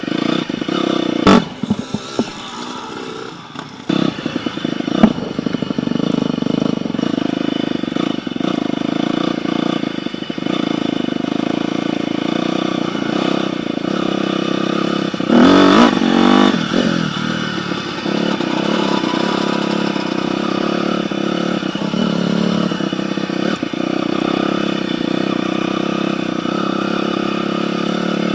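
Dirt bike engine running steadily, with a few sharp knocks in the first five seconds and a brief louder surge about halfway through.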